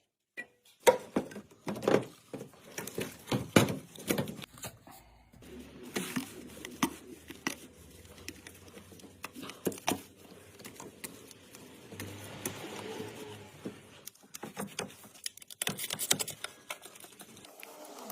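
Irregular clicks, knocks and clanks of hand tools on metal engine parts, louder and denser in the first few seconds and again near the end.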